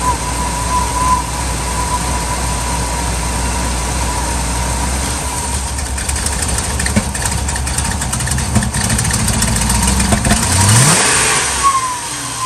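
Ford 5.4-litre two-valve V8 of a 2000 F250 running rough after a cold start as the throttle is worked, with the revs climbing sharply near the end. The rough running is what the owner puts down to a dirty idle air control valve and throttle body.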